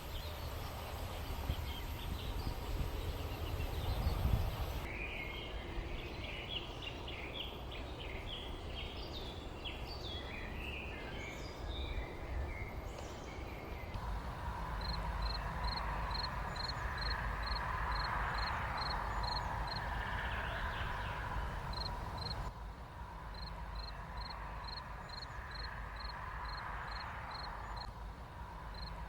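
Countryside ambience over a steady low rumble: a burst of small birds chirping in the first half, then a high, short chirp repeating about twice a second. The background shifts abruptly a few times.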